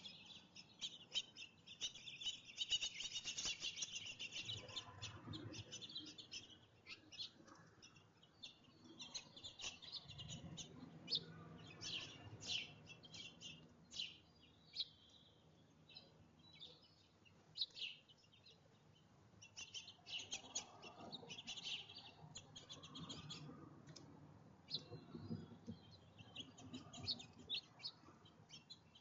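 Small birds chirping and twittering in many short high notes, thickest in a busy flurry about two to five seconds in and again around twenty seconds in.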